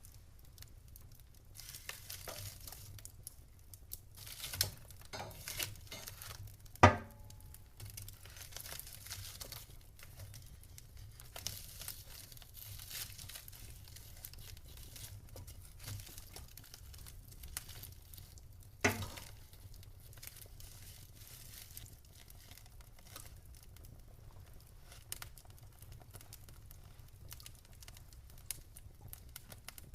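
Wood fire crackling in a fireplace: a continual scatter of small crackles with two loud, sharp pops, one about a quarter of the way in and another a little past the middle.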